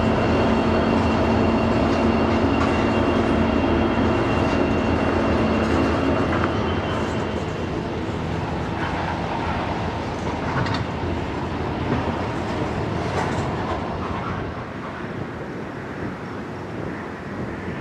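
EMD diesel locomotives rolling past with a steady engine drone. After about seven seconds the drone gives way to a noisier rumble of freight cars, with occasional wheel clicks, and it grows quieter near the end.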